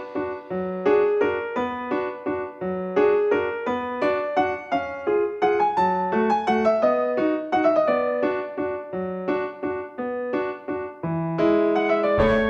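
Background music: a piano or electric piano playing a quick, even run of notes with a lighter melody on top.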